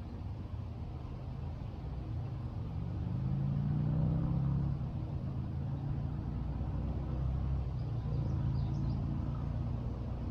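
Low engine rumble of a motor vehicle on a nearby road, swelling as it passes about four seconds in and then holding steady. A bird gives a few faint chirps near the end.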